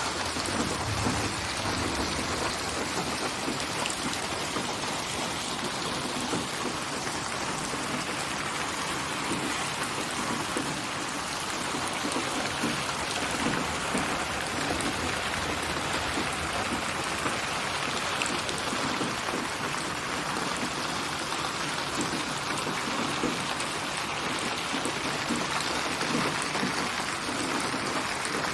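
Steady rain: a dense, even patter of raindrops. It is a rain ambience built from many recorded rain samples and panned around the listener in 8D binaural audio.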